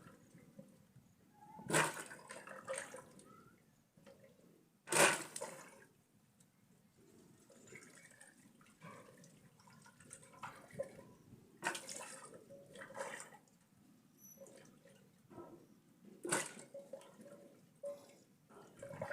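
Water splashing in about five short bursts spread over several seconds, with quieter handling sounds between them.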